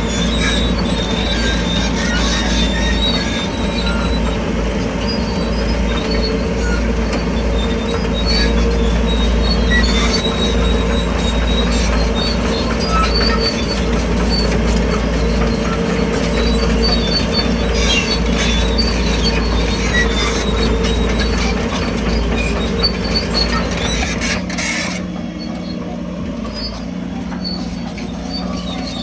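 Crawler bulldozer working, its diesel engine running under a steady low hum while the steel tracks squeal and clatter. Near the end the squealing stops and the sound gets a little quieter.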